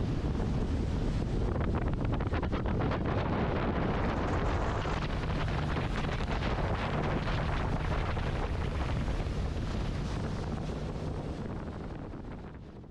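Wind buffeting the microphone over a steady low rumble, fading out near the end.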